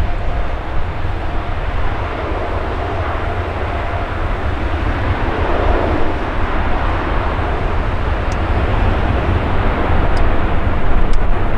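Jet airliner engines running with a steady, loud noise that swells slightly midway and near the end, mixed with heavy wind buffeting on the microphone.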